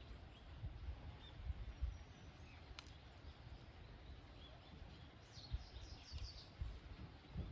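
Campfire burning with a low, uneven rumble and a sharp pop about three seconds in. A few faint high chirps come in about five seconds in.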